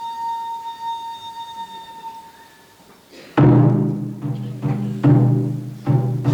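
Music: a held flute note fades out, and after a brief lull, heavy drum strikes begin about three and a half seconds in, spaced roughly a second apart, each leaving a deep ringing tone.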